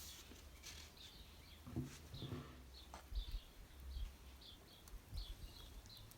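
Small birds chirping over and over in short high calls, faint, over a low rumble. A brief lower, pitched sound comes about two seconds in.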